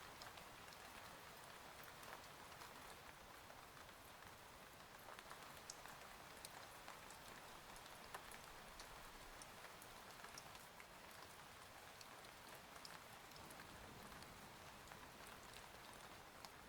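Faint, steady rain, with scattered small drops ticking sharply over the even hiss.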